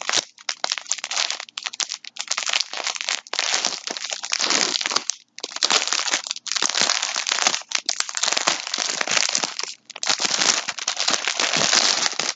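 Plastic wrapping crinkling and rustling in long handling stretches with short pauses, as a yarn skein is unwrapped and handled.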